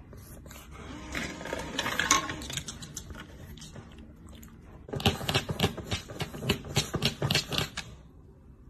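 A pug crunching dry kibble from a plastic feeder tray: a fast run of sharp clicks and crunches, lighter at first and densest from about five seconds in until near the end.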